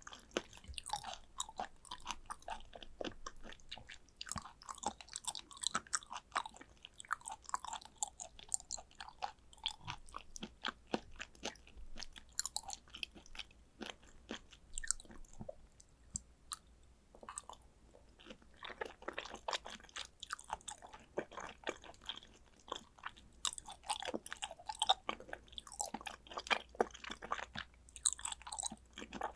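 Close-miked chewing of raw tuna sashimi (fatty belly cuts): a dense run of soft, wet mouth clicks and smacks, briefly quieter about halfway through.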